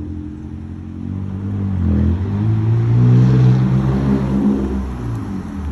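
Dodge Durango V6 running through an aftermarket exhaust, revved up from idle, held high for a couple of seconds, then dropping back to idle near the end.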